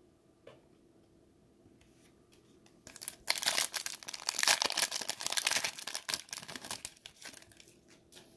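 Foil trading-card pack wrapper being torn open and crinkled, starting about three seconds in and lasting about four seconds.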